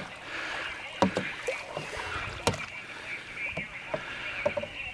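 Canoe paddling on calm water: small paddle plunks and splashes, with a few light knocks of the paddle on the Blue Hole canoe's hull. A steady high-pitched hiss runs underneath.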